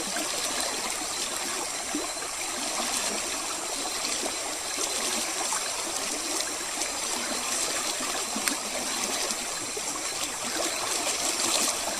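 Steady, even trickling and rushing of running water.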